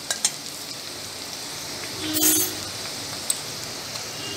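Sliced onions sizzling steadily in hot oil in a metal kadai, with a few light clicks of the metal spatula and a brief louder scrape about two seconds in.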